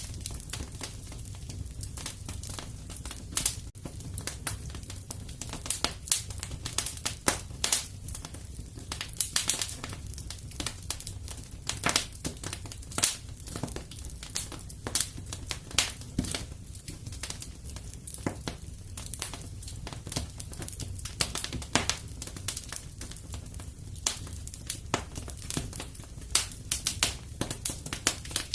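Wood fire burning in a fireplace: frequent irregular crackles and sharp pops over a low steady rumble of flame.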